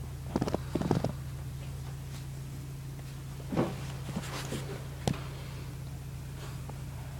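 A few short knocks and rattles, a cluster about a second in and more around three and a half to five seconds in, over a steady low hum.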